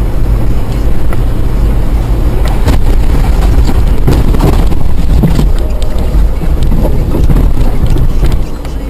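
A vehicle in motion, picked up by a dashcam microphone: a loud, steady low rumble of road and engine noise with some wind on the microphone, and a few short knocks in the middle.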